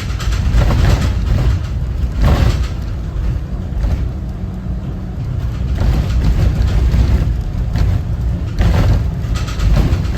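Cummins ISB 6.7 diesel engine of a Thomas Saf-T-Liner C2 school bus running under way, a steady deep rumble with several brief louder swells of noise.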